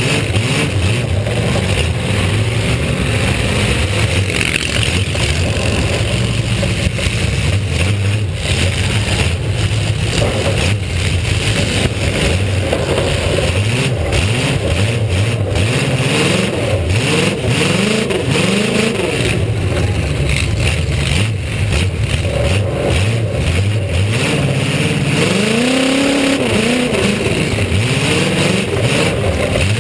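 Eight-cylinder demolition derby car engine running hard, its revs repeatedly climbing and dropping as the car accelerates and backs off, heard from on board the car.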